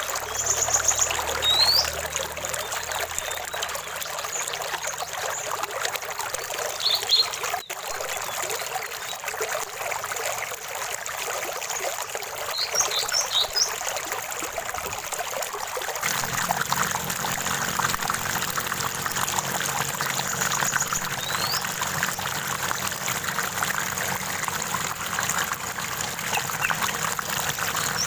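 A small stream of water trickling and splashing steadily, with birds giving short high chirps and brief rising whistles now and then. About halfway through, the water sound turns a little fuller and deeper.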